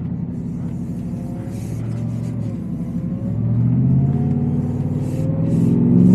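Supercharged 5.0L V8 of a Shelby F-150 Super Snake pickup accelerating, the exhaust note joined by supercharger whine rising in pitch. It grows louder about halfway through and again near the end.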